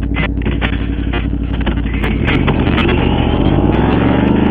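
Motorcycle engine pulling away under acceleration. Its pitch climbs steadily through the second half as the revs rise and it grows louder.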